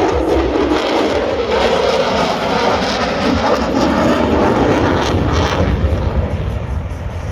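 Military jet aircraft flying over an airshow crowd: a loud, steady jet noise with a deep rumble, easing slightly near the end.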